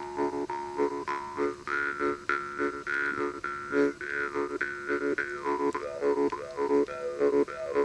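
Jaw harp (vargan) played with steady rhythmic plucking over a constant drone, the overtone melody rising and falling as the player's mouth shape changes.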